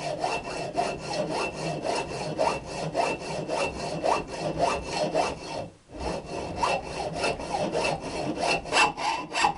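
Hacksaw cutting through a steel motorcycle exhaust pipe, sawing it to length to fit the silencer: fast, regular back-and-forth strokes with a faint metallic ring, pausing briefly a little past halfway before carrying on.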